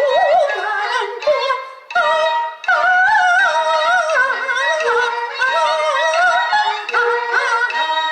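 Peking opera aria: a high, wavering melody with strong vibrato and traditional instrumental accompaniment, with brief breaks between phrases.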